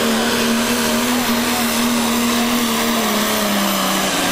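Pro stock diesel pulling truck's engine running loud and steady, its pitch sagging slightly about three seconds in.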